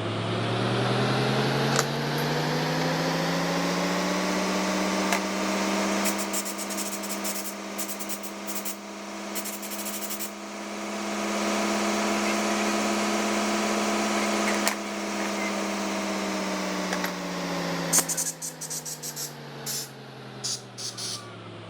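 A motor-driven machine spins up to a steady hum over a few seconds, runs evenly, then winds back down near the end, with a few light clicks while it runs.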